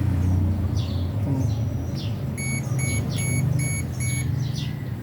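Five short electronic beeps in quick succession in the middle, over a steady low rumble, with short high bird chirps repeating throughout.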